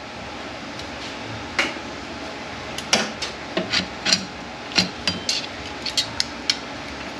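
Metal transmission parts being handled during teardown of a Mercedes 722.9 automatic: irregular sharp metallic clinks and knocks, about a dozen, as clutch-pack parts are pulled apart and set down, over a steady background hum.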